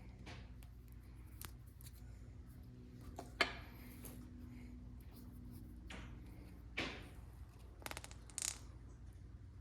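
Small tool parts being handled on a workbench: a few sharp clicks and taps, the loudest about three and a half seconds in and a cluster near the end, over a steady low hum.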